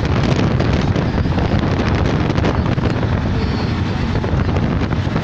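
Wind buffeting the microphone: a loud, steady rumbling roar with no pauses.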